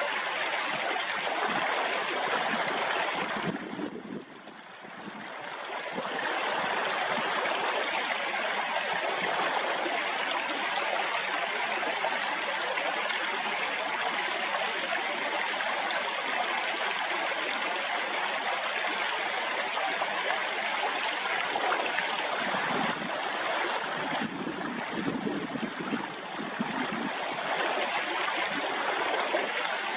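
Steady rushing of flowing stream water, dipping briefly about four seconds in.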